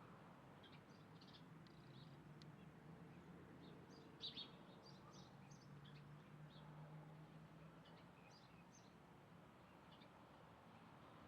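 Faint chirping of small birds: scattered short, high calls, the loudest two close together about four seconds in, over a faint low steady hum.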